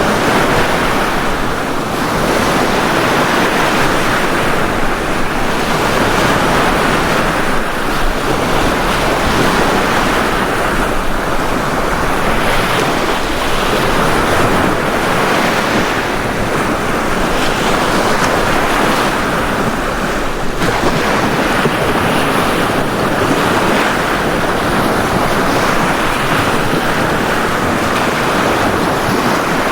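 Ocean waves breaking on a beach: a continuous rush of surf that swells and eases every few seconds as each wave comes in.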